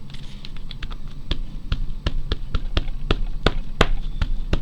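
Rubber stamp being tapped again and again onto an ink pad to ink it up: quick, even taps at about four a second, louder after about a second in.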